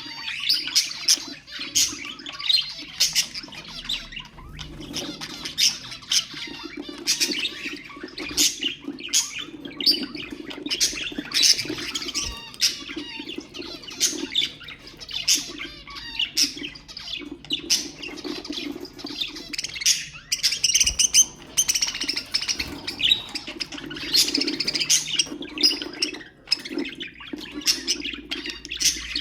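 Budgerigars chattering in a dense run of quick, sharp chirps, warbles and squawks.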